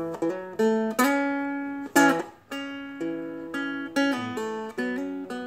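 Seagull Merlin, a four-string fretted dulcimer-style instrument, strummed in an easy chord pattern. A strong strum falls about once a second, with its notes ringing out and a few lighter strokes in between.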